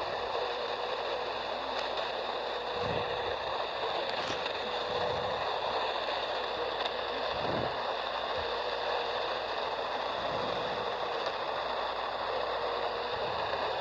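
AM radio receiver tuned to 1340 AM giving out a steady hiss of static and interference noise, the strange noise on that frequency, with a faint steady tone and a few soft low thumps now and then.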